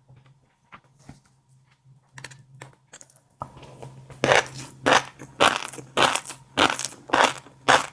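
Close-miked chewing of a mouthful of fish roe, the eggs crunching and popping between the teeth. A few faint clicks at first, then from about four seconds in a steady run of crunches, a little under two a second.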